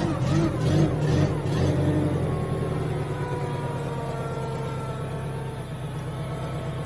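Genie S60 boom lift's engine running steadily, now that the no-start-from-the-ground fault is fixed. Wavering pitched sounds ride over it for the first couple of seconds, and from about three seconds in a faint whine slowly rises in pitch.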